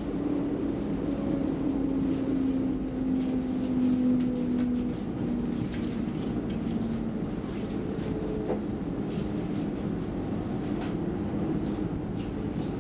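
Stockholm commuter rail X10 electric train running with a constant rumble. An electric whine slowly falls in pitch over the first several seconds and then holds steady, with scattered light clicks from the running gear.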